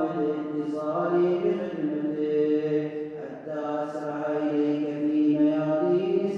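A man's voice chanting an Arabic supplication in a slow, melodic recitation style, holding long notes and gliding between them.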